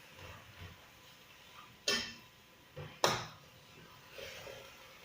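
Two sharp knocks or clacks about a second apart near the middle, with fainter handling sounds around them.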